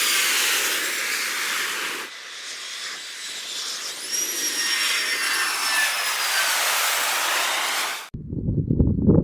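Jet airliner on landing approach: loud engine hiss with high turbine whines slowly falling in pitch, abruptly cut twice. About eight seconds in it gives way to low, irregular thumping noise.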